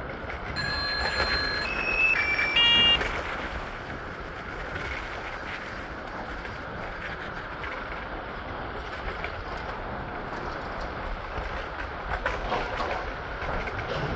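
Train running with a steady rumble. From about half a second in, a run of electronic beep tones sounds at stepped pitches, ending near three seconds in with the loudest, fullest tone.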